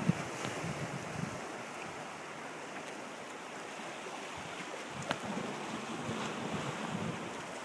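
Ocean surf washing in as a steady hiss, with low buffeting of wind on the microphone that fades about a second in.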